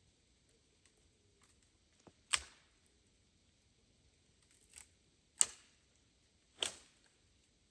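Four sharp clicks or knocks at irregular intervals, the loudest about two and a half and five and a half seconds in, against a quiet background.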